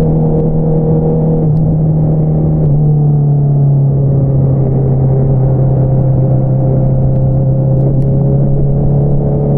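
2022 Honda CBR650R's inline-four engine running through an Akrapovič single-outlet exhaust at steady revs, an even drone that dips slightly in pitch about two seconds in and then holds.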